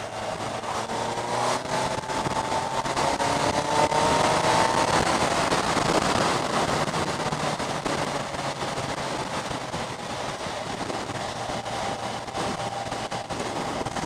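Kawasaki Z1000SX's inline-four engine rising in pitch as the motorcycle accelerates over the first few seconds, then running steadily. A constant rush of wind and road noise runs under it.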